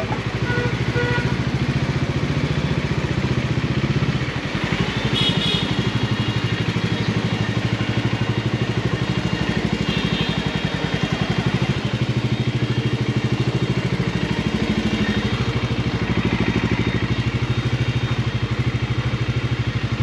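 Bajaj Dominar 400's single-cylinder engine running steadily at low revs, with an even, rapid firing pulse.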